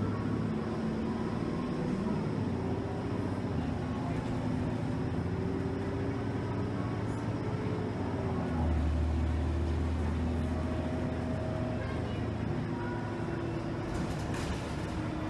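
Motor coach heard from inside the cabin: the engine runs under a steady low road rumble, its pitch rising and falling as the bus speeds up and slows. The low rumble swells for a couple of seconds past the middle, and a brief rattle comes near the end.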